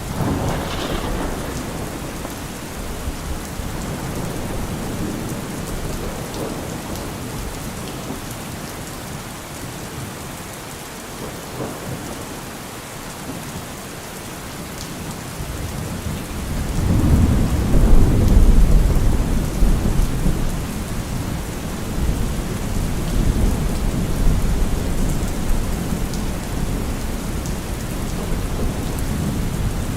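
Steady rain falling, with rolling thunder. A rumble dies away in the first seconds. Then, about sixteen seconds in, a deep peal swells, peaks a couple of seconds later and slowly rolls away.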